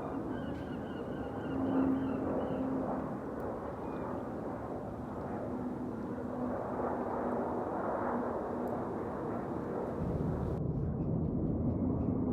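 Jet airliner landing, its engines giving a steady rumble with a faint whine. About ten seconds in the sound turns duller and lower.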